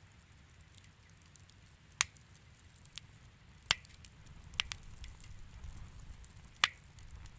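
Wood fire crackling in a fireplace: a few sharp, separate pops and snaps over a low steady rumble, the loudest about two seconds in, near four seconds and late on.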